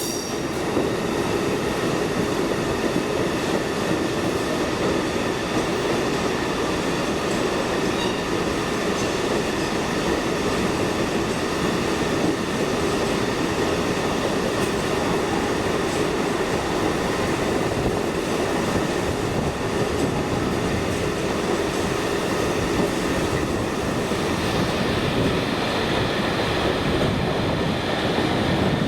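A train running past close by: a continuous, steady rumble of wheels on the rails, with faint high thin tones riding above it.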